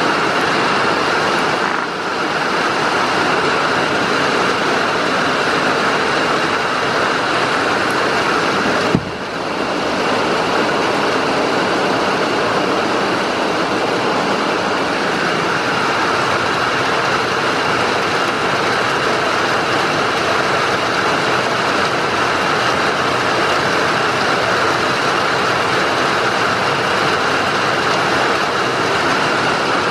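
Heavy rain falling steadily, an even, loud hiss, with one sharp click about nine seconds in.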